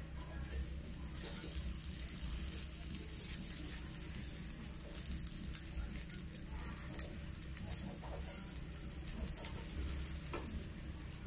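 Egg omelette frying in hot oil in a metal wok, sizzling steadily with scattered crackles, while a wooden spatula scrapes and breaks it up against the pan. A low steady hum runs underneath.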